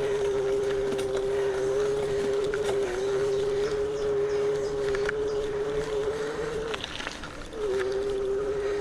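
Electric bike's assist motor whining at a steady pitch while climbing a hill, cutting out for a moment about seven seconds in and then picking up again.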